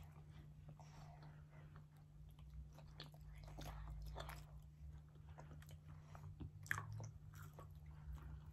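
Faint chewing and biting of pepperoni pizza by two people, with soft mouth clicks scattered throughout and a sharper one late on, over a steady low hum.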